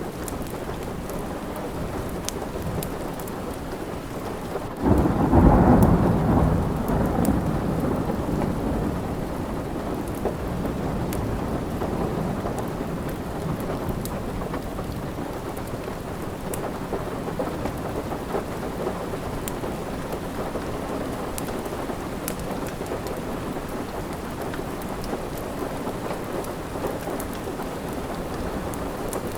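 Steady rain with a rumble of thunder about five seconds in that swells up suddenly and fades over a few seconds. Faint crackles of a wood fire are scattered throughout.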